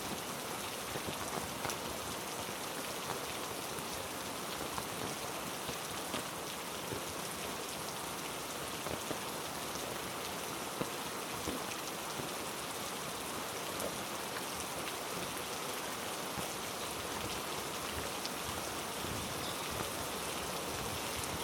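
Heavy rain falling steadily on rainforest foliage: an even hiss with scattered drops ticking close by.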